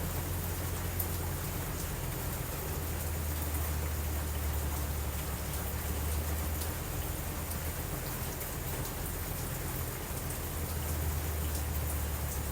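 Steady rain, with a constant low rumble underneath and faint scattered ticks of drops.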